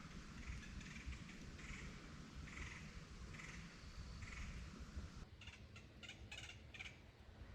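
Birds calling faintly, one short call about every second, then a quicker run of about six sharp calls near the end, over a low rumble of breeze on the microphone.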